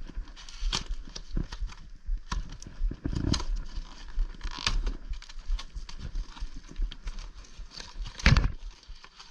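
Cardboard box being cut open with a knife and handled: irregular scrapes, clicks and knocks, with one loud thump about eight seconds in.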